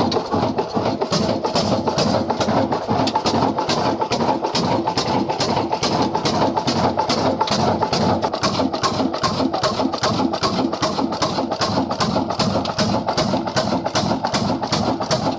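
Old black slow-speed diesel engine running steadily, its beat even at about three strokes a second.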